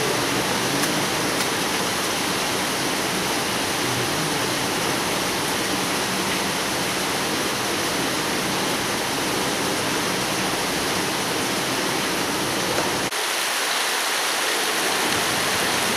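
Heavy rain falling, a steady dense hiss of water. The low rumble drops away briefly about thirteen seconds in.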